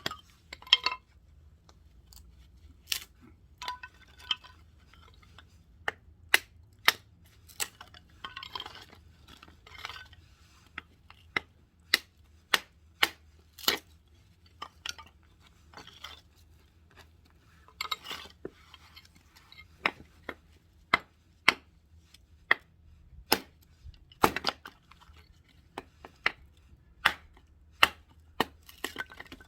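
Firewood being split with repeated sharp chopping strikes, roughly one a second, and short rasping stretches between some of them.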